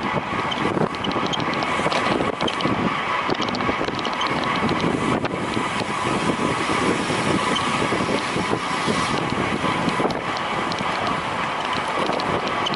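Wind rushing over a racing cyclist's camera microphone at speed, with a steady whir underneath from the bicycle.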